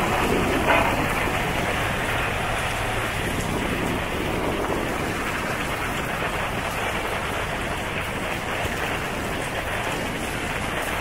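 Heavy rain pouring down, a steady hiss of rain on wet pavement, with a brief thump just under a second in.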